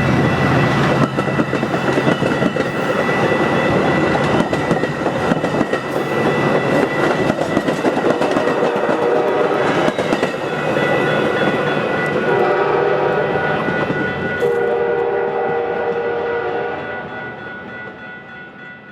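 Metra commuter train passing close by, its wheels clattering over the rail joints, with steady horn-like tones sounding about twelve seconds in before the sound fades away.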